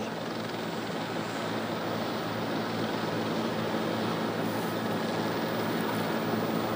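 A steady, noisy drone with a low hum underneath, growing slightly louder toward the end. It sounds like the engine and rotor noise of a news helicopter, picked up on the live aerial feed.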